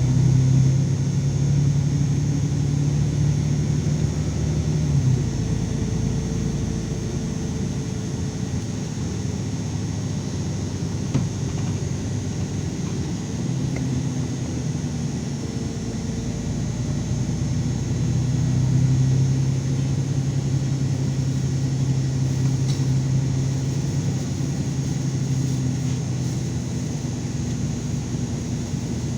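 LiAZ 5292.22 low-floor city bus under way, its engine and drivetrain running with a steady rumble. The engine note is strong at first, eases off after about five seconds, then builds again, loudest around two-thirds of the way through as the bus pulls or gathers speed.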